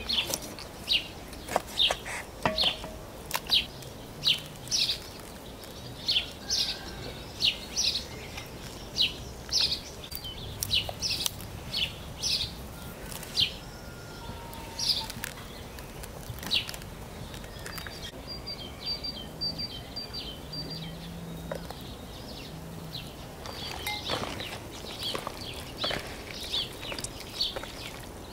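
A bird chirping over and over in short, sharp, high calls, about one or two a second, with a quick run of rapid ticking notes about two-thirds of the way through.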